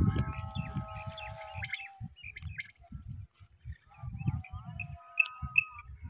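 Birds calling, with steady whistled notes and, from about five seconds in, a quick run of short high pips. Under the calls is an irregular low buffeting noise, loudest at the start.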